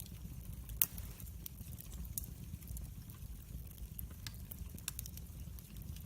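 Wood fire crackling in a fireplace: scattered snaps and pops over a low steady rumble, with one sharper pop about a second in.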